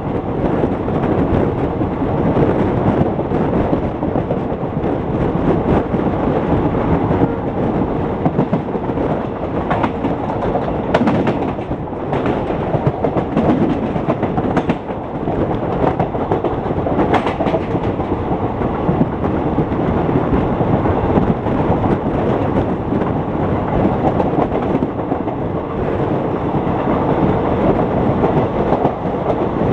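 Indian Railways express train of ICF passenger coaches running at speed: a steady rumble of wheels on track with clickety-clack over the rail joints, and a few sharper clacks about halfway through.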